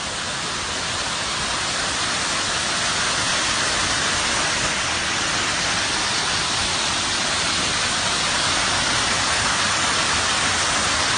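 Steady, loud rush of water, a continuous even roar with no breaks.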